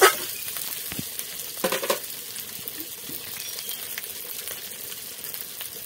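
Chicken pieces sizzling in hot oil in a metal kadai, the meat browned and starting to catch on the bottom of the pan. A metal spatula scrapes and clatters against the pan at the start, with another knock about two seconds in.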